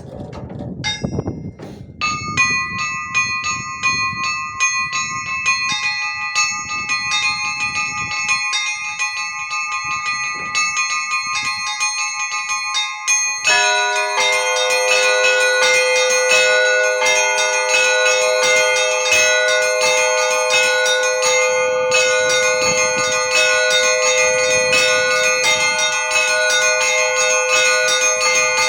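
Russian Orthodox church bells rung by hand for Easter: quick, rhythmic strikes on small high-pitched bells, joined about halfway through by larger, deeper bells, the ringing growing louder. Wind rumbles on the microphone before the bells start.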